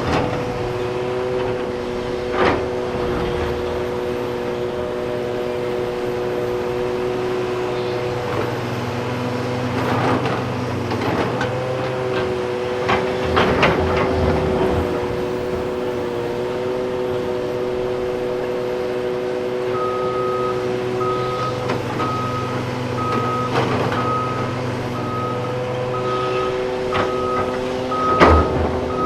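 Heavy diesel engines of excavators and haul trucks running steadily, with occasional knocks and rattles as dirt and rock are loaded. About two-thirds of the way through, a backup alarm starts beeping at an even pace.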